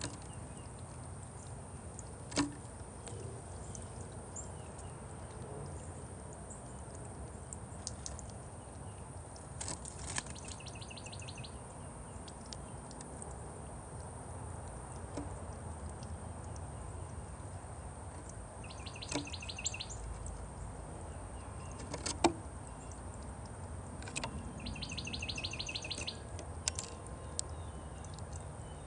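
A small songbird gives three short, fast trills of rapidly repeated high notes, each about a second long, spread across the stretch. A few sharp clicks or taps fall in between, over a steady low outdoor background noise.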